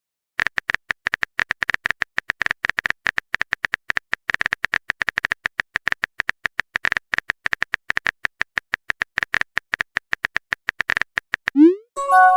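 Typing sound effect for chat text appearing on screen: a fast, uneven run of short electronic blips, around ten a second. Near the end it gives way to a quick rising swoop and a short chime.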